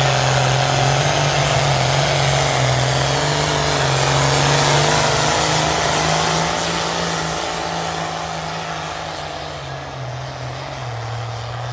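New Holland 8670 pro stock pulling tractor's diesel engine at full throttle under load while pulling the sled, a steady high-revving note that slowly fades as the tractor moves down the track. The pitch dips slightly near the end of the run.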